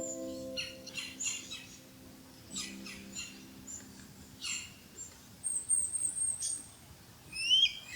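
Small songbirds chirping: a run of short, high, downward-sweeping chirps, a thin high trill about six seconds in, and louder rising whistled notes near the end.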